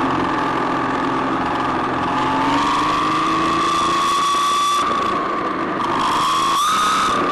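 RC car's motor whining at speed, its pitch climbing steadily as it accelerates, then dropping off sharply about five seconds in as it lets off the throttle, and climbing again near the end.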